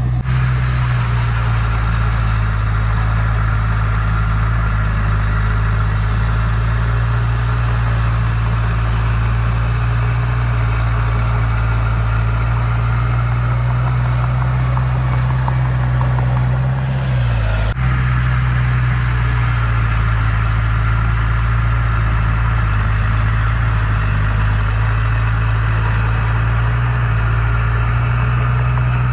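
Heavy diesel engine of earthmoving machinery running steadily, with a brief break about two-thirds of the way through.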